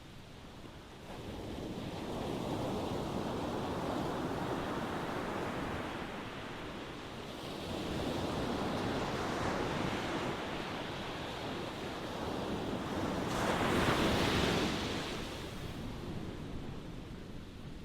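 Ocean waves washing onto a shore: a rushing noise that swells and ebbs in slow surges, the loudest wave breaking about fourteen seconds in.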